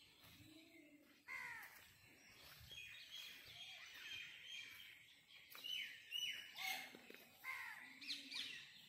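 Several birds calling in trees: many short, quickly falling chirps, loudest between about five and seven seconds in, with a few lower calls underneath.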